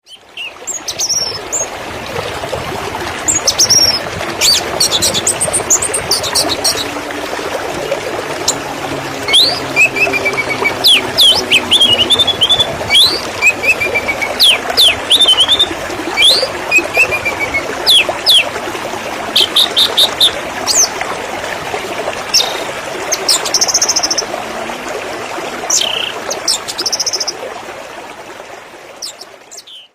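Running water with a steady rushing sound, and small birds chirping and trilling over it in many short calls, busiest through the middle; the sound fades in at the start and fades out near the end.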